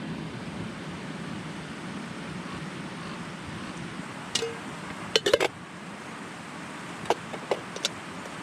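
Several sharp small clicks and clinks, a tight cluster about halfway through and three single ones near the end, over a steady outdoor rushing noise.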